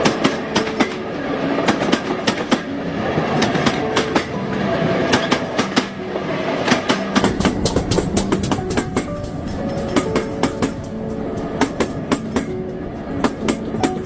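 Train rolling past, its wheels clicking in quick irregular clusters over the rail joints with a steady rumble, the low rumble growing heavier about halfway through.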